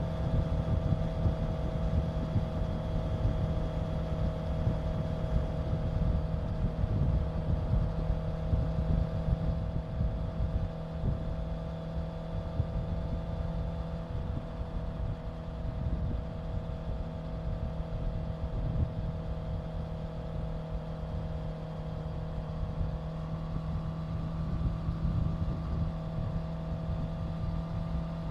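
Honda CBR650F's inline-four engine running at a steady cruise, its pitch easing slightly in the middle and picking up a little near the end.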